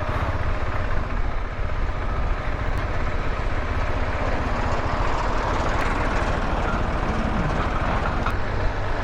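Motorcycle running steadily on the move, with a low engine rumble under a steady rush of wind and road noise on the microphone.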